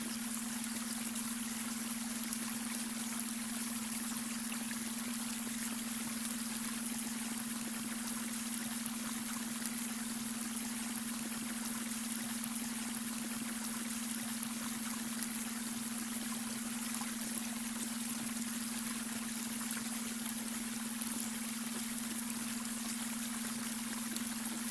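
Babbling brook running steadily, an even rush and trickle of water, with a steady low hum tone underneath: the beta-wave brainwave tone blended into the recording.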